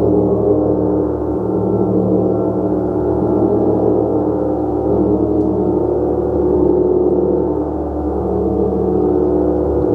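A gong played continuously, a dense sustained wash of many overlapping tones that swells and ebbs without a break.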